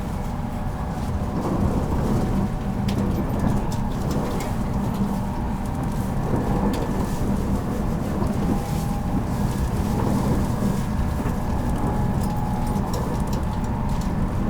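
Onboard running noise of a 783-series limited express electric train at speed, heard inside motor car MoHa 783-13. The wheels and running gear make a steady rumble, with a faint motor or gear whine and scattered light clicks.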